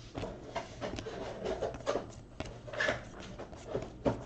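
Trading cards being handled and sorted: quiet rubbing and sliding with scattered light clicks.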